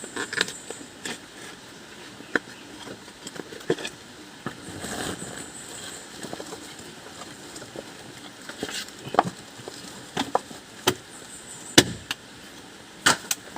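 Scattered sharp knocks and clicks at irregular intervals, several of the loudest near the end, with a brief swell of noise about five seconds in.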